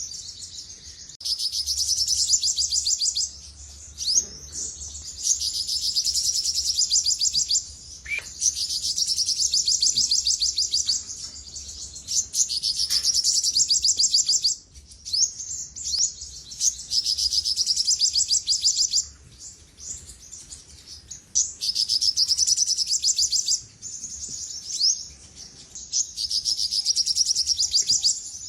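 Olive-backed sunbird singing: high-pitched phrases of fast, rapidly repeated notes, each phrase lasting a few seconds, with short pauses between.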